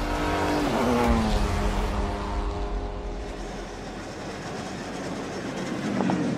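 Aston Martin DB4 GT Zagato's straight-six engine running hard at speed. Its pitch falls about a second in, it then runs quieter, and a second short fall in pitch comes near the end.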